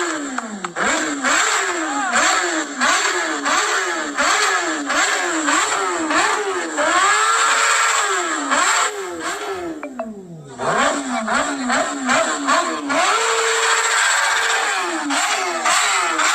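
Kawasaki Ninja ZX-10R inline-four with a full-system Arrow exhaust, revved in quick repeated throttle blips, its pitch rising and falling in rapid succession, with sharp popping cracks between the revs. The engine drops briefly to idle about ten seconds in, then the revving starts again.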